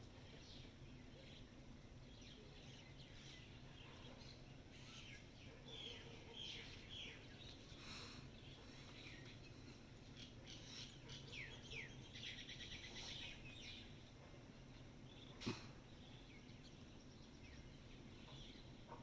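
Faint chirping and twittering of small birds: short high notes and quick downward-sweeping calls, with a fast trill about twelve seconds in, over a steady low background hum. A single sharp click comes about fifteen seconds in.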